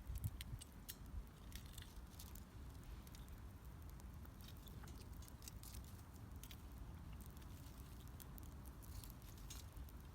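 Wood fire burning with faint, irregular crackles and pops over a low, steady rumble.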